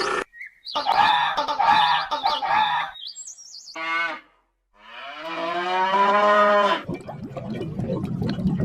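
A cow mooing: one long call of about two seconds in the second half. Short bird chirps and other brief animal calls come before it.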